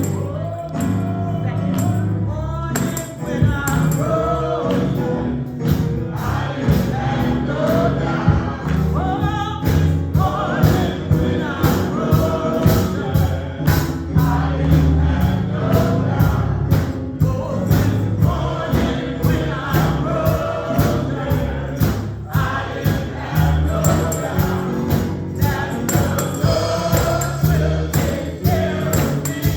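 Gospel choir singing over a band, with a strong bass line and a steady beat of sharp percussion hits.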